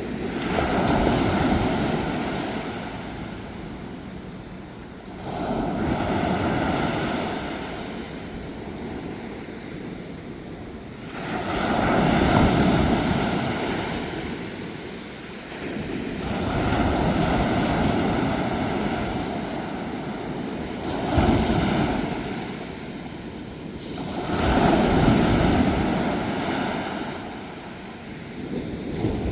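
Sea waves breaking and washing up on a shore, surging in and ebbing away about every five seconds, six surges in all.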